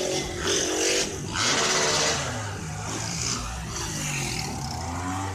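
Vehicle engine running and revving, its pitch rising and falling, with a burst of hissing noise about a second and a half in.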